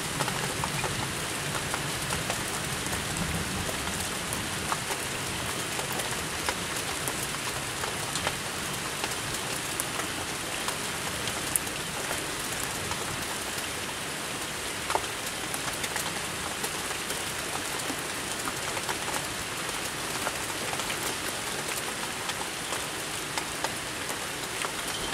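Heavy rain falling steadily, a continuous hiss with scattered sharp ticks of drops striking close by.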